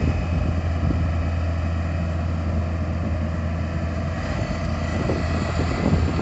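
Engine of a Yanmar tracked rice combine harvester running steadily under load with a constant low hum.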